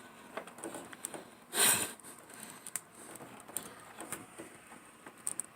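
Small clicks and taps of hands working on dryer parts, with one brief scrape about a second and a half in, as a stuck piece that will not come out is worked at.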